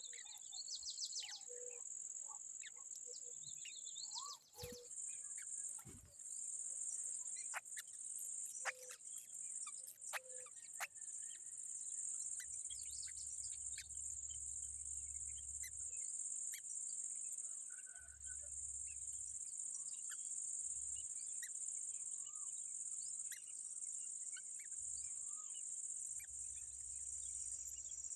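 Steady high-pitched drone of insects throughout, with scattered short bird chirps and clicks over it.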